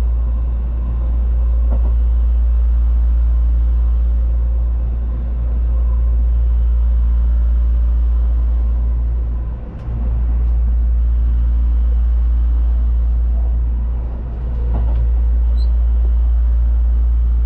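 Loud, steady low rumble of a moving train, dipping briefly a few times.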